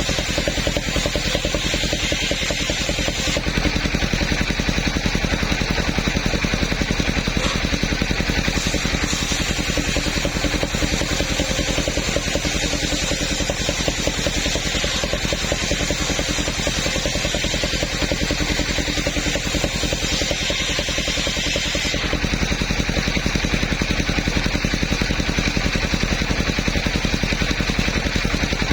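Engine of a mobile sawmill running steadily at constant speed, with a rapid even firing beat and a hiss above it that changes in level a few seconds in and again about three-quarters of the way through.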